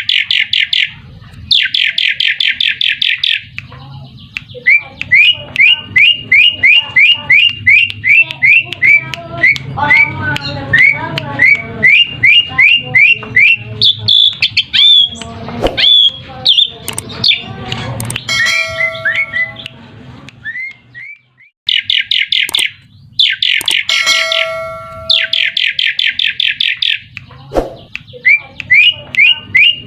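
Asian pied starling (jalak suren) singing: bursts of fast rattling chatter alternate with runs of short rising whistled notes at about two a second. Around the middle and again later come a few short, steady whistles, all over a low hum.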